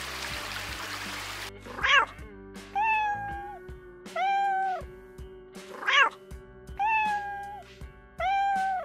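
A kitten meowing six times, mixing short rising mews with longer held ones, over background music. A steady hiss fills the first second and a half before the meows begin.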